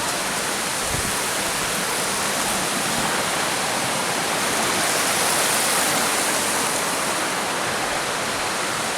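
Rushing stream water: a steady, even rush of running water that swells slightly about halfway through.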